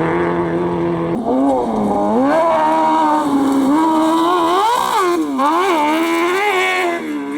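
Competition vehicle's engine working hard on a dirt slalom course. It drops in pitch about a second in, then revs up and down repeatedly, with quick rises and falls in the middle and near the end as the throttle is worked through the turns.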